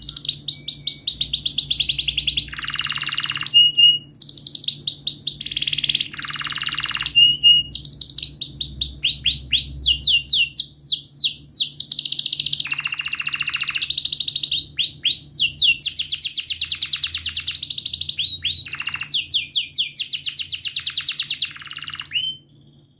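Canary singing a long, continuous song of rapid trills and rolled phrases, with quick repeated chirps and only brief breaks between phrases. The song stops near the end.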